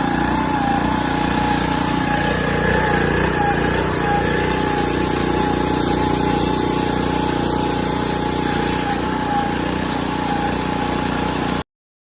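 A motor running steadily with a constant whine over a low drone, cutting off abruptly near the end.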